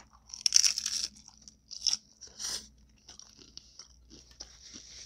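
A taco being bitten into and chewed close to the microphone: a loud crunch about half a second in, two shorter crunches about two seconds in, then softer chewing.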